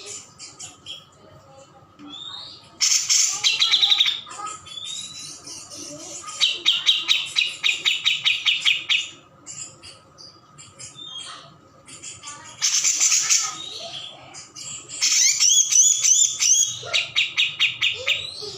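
Cucak jenggot songbird singing in four bursts of fast, high, rattling trills, each one to three seconds long, with quieter scattered chirps between them.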